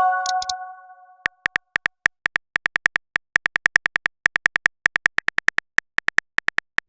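Chat-app sound effects: a short notification chime that fades within about a second, then a long run of short, high beeping clicks in quick, uneven bursts, a typing sound effect.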